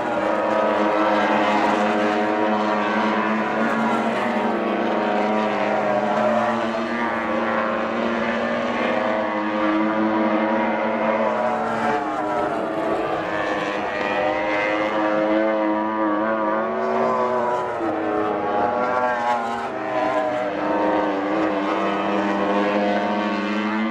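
MotoGP racing motorcycle engines at race speed, several bikes at once, their tones rising and falling as they are revved through the gears. The sound is loud and continuous, with no break.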